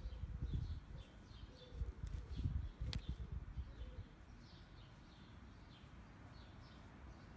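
Small birds chirping repeatedly in the background, with a low rumbling noise through the first four seconds and a single sharp click about three seconds in.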